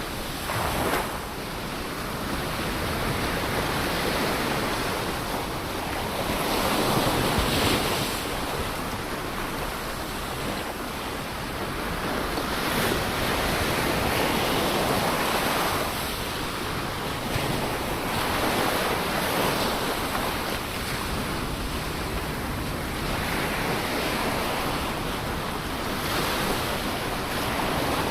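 Ocean waves breaking and washing onto a shore as a continuous rushing surf that swells and eases every few seconds.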